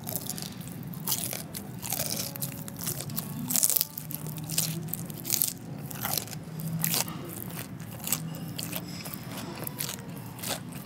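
Crisp-battered Taiwanese-style fried chicken (karaage) being bitten and chewed close to a clip-on microphone: many irregular crunches as the fried coating breaks up between the teeth.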